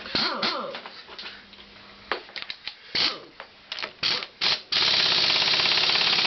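The starter gear and roller starter clutch of a Honda CX500-type engine are turned and worked, giving scattered metallic clicks and clatter. Near the end this changes to a loud, fast, continuous ratcheting as the clutch freewheels. The clatter comes from the play in the starter gear, which is normal for this engine.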